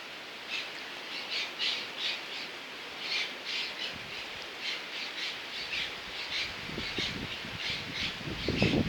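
A bird calling outdoors in quick, harsh, repeated chirps, two or three a second, over a steady background hiss; a low rumble comes up near the end.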